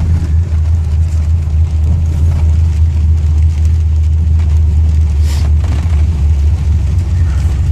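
Truck engine and drivetrain running at a steady cruise, a low, even drone heard from inside the cab.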